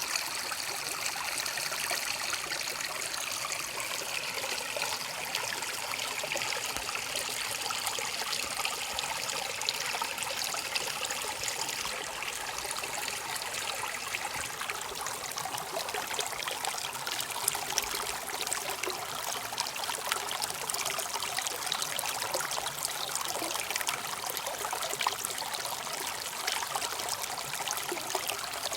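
Running water trickling steadily, with a constant splashing hiss.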